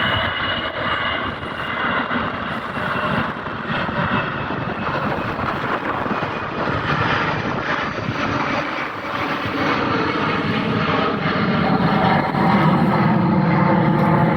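Aircraft engines running steadily, with a faint whine over a broad rush, growing louder and deeper about twelve seconds in.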